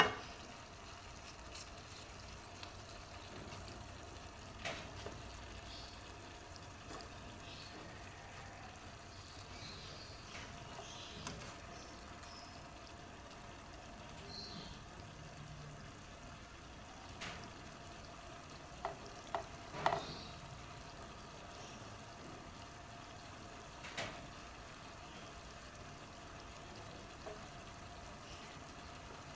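Diced potatoes, chilies and tomato frying gently in oil in a pan: a faint, steady sizzle, with a few sharp clicks scattered through it.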